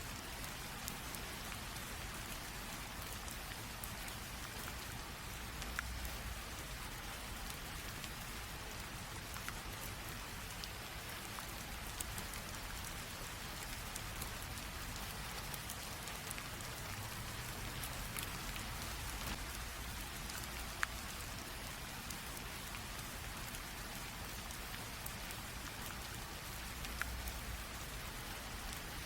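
Light rain falling steadily, a soft even hiss with scattered individual drops ticking on a surface.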